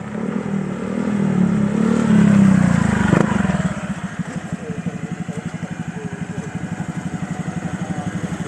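Honda Vario 125 scooter's single-cylinder four-stroke engine through an ABF Racing Standar Racing V2 aftermarket exhaust, running harder and getting louder until a couple of seconds in, then dropping to an even, steadily pulsing idle.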